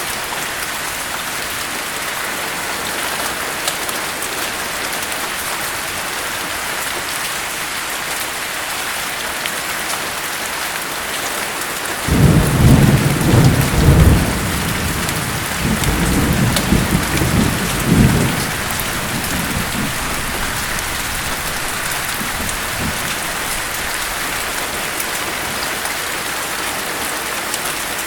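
Steady rain hiss with a roll of thunder near the middle. The thunder rumbles low and loud in several swells for about six seconds, then fades back under the rain.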